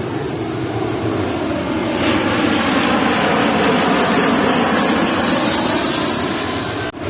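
Jet airliner on landing approach passing low overhead, its engines a loud, rushing noise that grows louder over the first couple of seconds and then holds.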